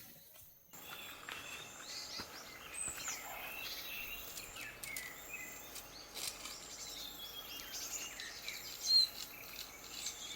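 Birds chirping and calling, many short whistled notes, over a steady outdoor hiss that sets in just under a second in.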